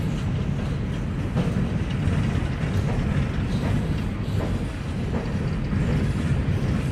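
Empty coal hopper cars of a freight train rolling past: a steady low rumble of steel wheels on rail with scattered faint clicks.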